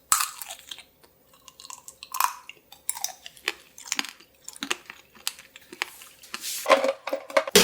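Tanghulu being bitten and chewed: the hard candied-sugar shell cracks on the first bite, then a run of crisp crunching and chewing.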